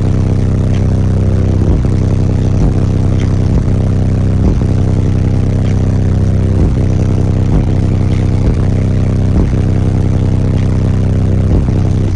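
Semi truck's diesel engine running loud and steady at idle, a deep, even rumble.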